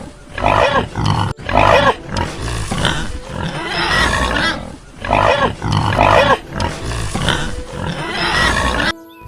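Piglets squealing and grunting in a rapid series of short calls, stopping shortly before the end.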